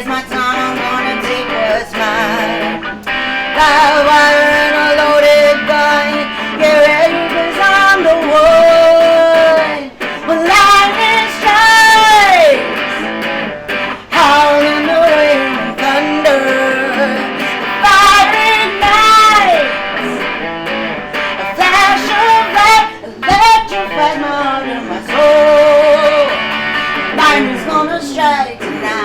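Rock music with an instrumental guitar passage: a lead guitar holds sustained notes that bend and waver in pitch over strummed guitar accompaniment.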